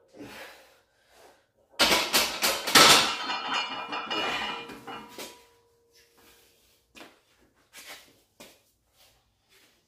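Barbell and iron weight plates clanking: a burst of metal knocks and rattles lasting about three seconds, with a lingering ringing tone, followed by a few light clicks.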